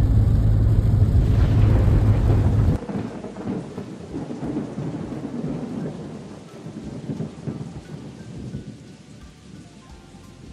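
Heavy rain in a thunderstorm, with rumbling. A loud, steady low rumble fills the first few seconds and cuts off suddenly, leaving rain falling with fainter rumbles that slowly fade, and soft music creeping in near the end.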